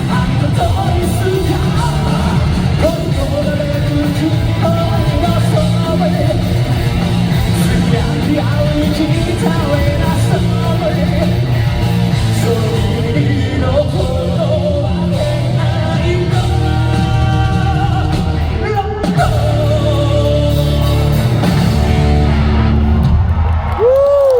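Live rock band playing loud, with electric guitar, bass, drums and singing, heard from the audience in a large hall. Near the end a held note slides up and back down as the song closes.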